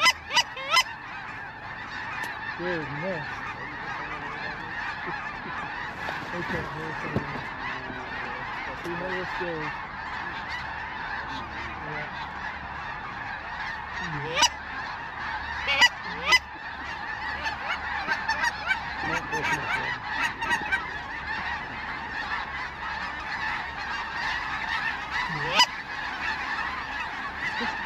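A large flock of snow geese calling continuously, a dense, steady chorus of honks. A few sharp cracks cut through it, two about a second apart in the middle and one near the end.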